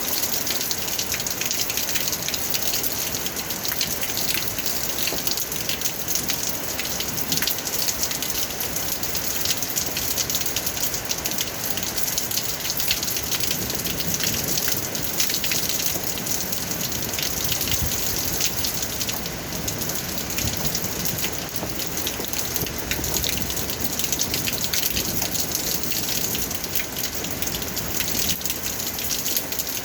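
Steady heavy rain: a continuous wash of falling water with countless small, sharp drop impacts.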